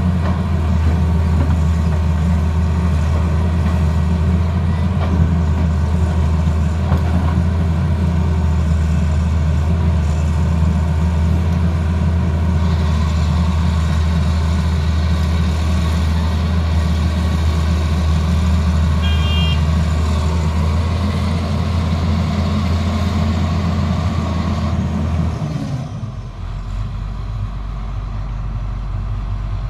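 Diesel engine of a Tata Hitachi excavator running steadily at working speed, with a brief high beep in the middle. Near the end the engine note drops to a lower, quieter setting.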